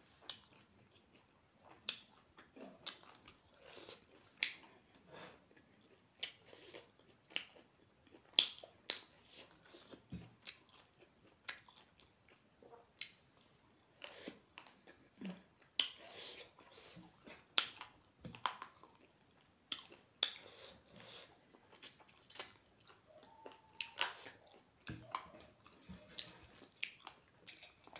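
Close-up eating sounds of a person chewing rice and pork fry, with frequent short sharp mouth clicks and smacks at irregular intervals.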